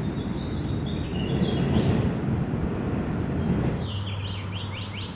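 Birds chirping in short, high, repeated calls, with a quick run of falling notes near the end, over a low rumble that drops away about four seconds in and leaves a steady low hum.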